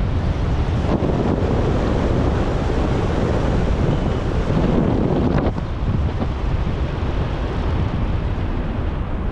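Wind rushing over an action camera's microphone as a bike rolls down a hill. It thickens about a second in and eases off a little after five seconds.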